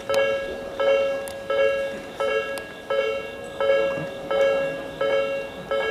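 Japanese electronic level-crossing alarm ringing, a repeated two-tone ding about every 0.7 seconds, nine strokes in all, warning that a train is approaching.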